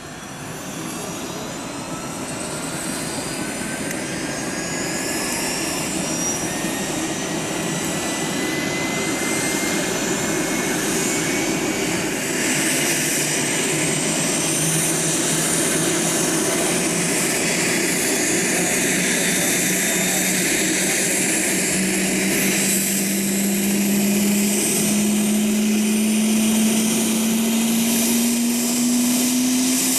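Airbus Helicopters AS365N Dauphin twin-engine helicopter approaching, its turbine and rotor noise growing steadily louder. Several high whines rise slowly in pitch, and a low hum climbs in pitch through the second half.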